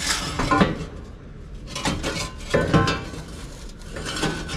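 An old steel exhaust pipe, cut down the middle, clanking and scraping against the truck's underside as it is worked loose and pulled out: several separate metallic knocks, each with a brief ring.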